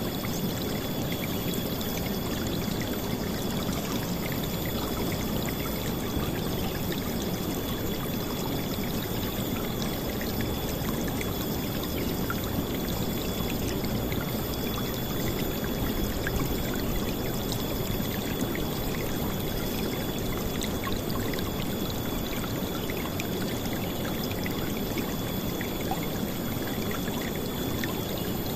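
River water flowing steadily, a constant loud rush with small splashes scattered through it.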